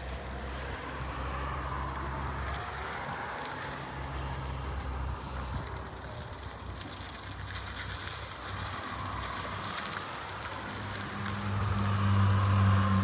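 Still RX 60-25 forklift truck running, a steady low engine hum with a faint whine wavering above it; the engine note rises and grows louder about eleven seconds in.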